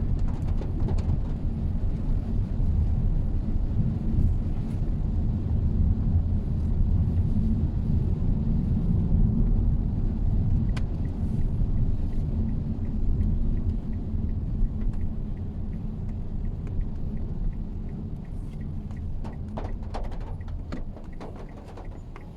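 Steady low road and engine rumble of a Mitsubishi Xpander being driven, easing off somewhat in the second half, with a few light clicks near the end.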